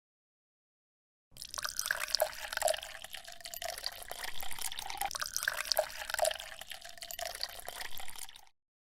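Water splashing and dripping, with many small irregular drops and splashes. It starts suddenly about a second in and cuts off abruptly shortly before the end.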